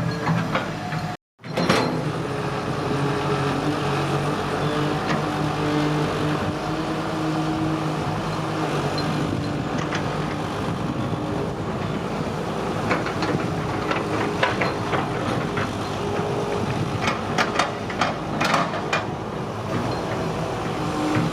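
Excavator's diesel engine running steadily, with a run of sharp metal clanks and knocks in the second half. The sound drops out completely for a moment about a second in.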